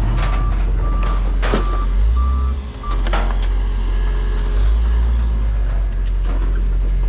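A vehicle's reversing alarm beeping about twice a second over a low, steady engine rumble, stopping about two seconds in, with a few sharp metal knocks.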